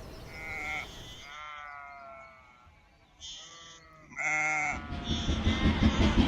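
Sheep and lambs bleating, four or five calls one after another, the loudest a little after four seconds in. A model train's running noise comes back in near the end.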